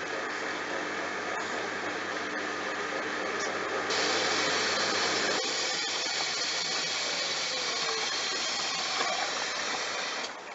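Bosch washing machine running a wash cycle with a load of towels. A louder hissing rush starts suddenly about four seconds in and cuts off abruptly near the end.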